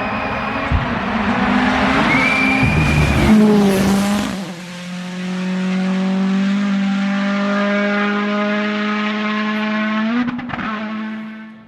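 Rally car at full speed on a special stage. For about four seconds the engine and tyres are loud and rough, with some tyre squeal. Then a steady, high engine note holds flat out and climbs slowly, broken by a short crackle near the end before it fades away.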